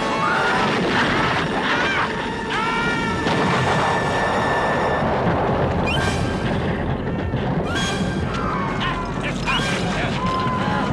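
Film soundtrack of a volcanic eruption: a dense, continuous rumble with booms and crashes, mixed with music. Short rising-and-falling high cries or calls come over it again and again.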